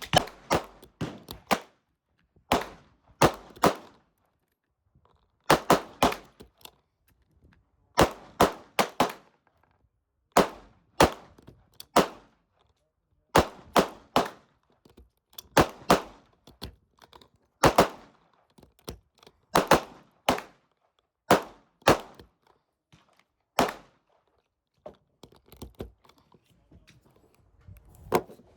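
Gunfire in quick groups of two to four sharp shots, a new group about every two seconds with short quiet gaps between, fading to fainter shots near the end.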